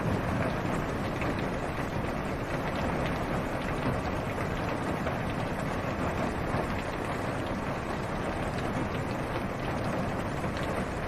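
Steady heavy rain falling on a car's roof and windshield, heard from inside the cabin: a dense, even hiss with a deep low rumble and scattered individual drop ticks.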